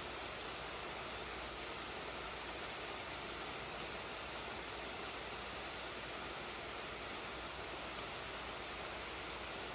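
A steady, even hiss that does not change, with no distinct knocks, tones or voices.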